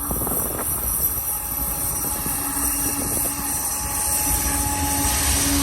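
Union Pacific freight train passing: a steady low rumble with a held tone that comes in about two seconds in, growing a little louder near the end.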